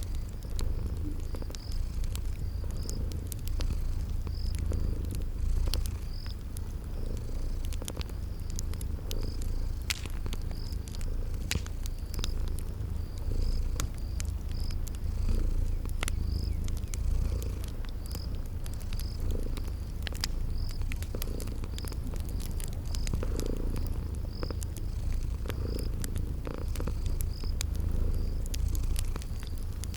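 Cat purring steadily in a low continuous rumble, with scattered sharp pops of a crackling wood fire and a regular run of high cricket chirps.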